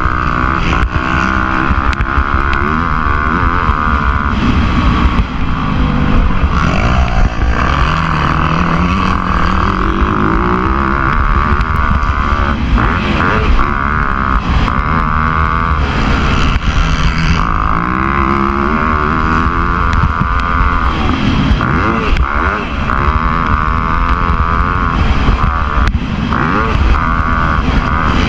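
Motocross bike engine running hard, its pitch rising and falling again and again as it revs up and backs off.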